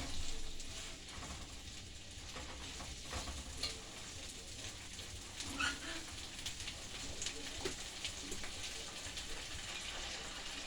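Seasoning with ginger sizzling as it fries, a steady hiss with a few light taps and scrapes of stirring.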